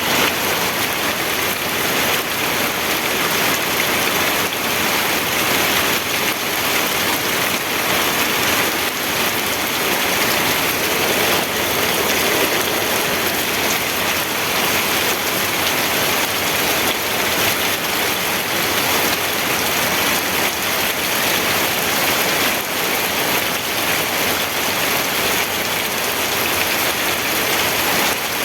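Steady rain falling on a surface: an even, unbroken hiss of many small drops.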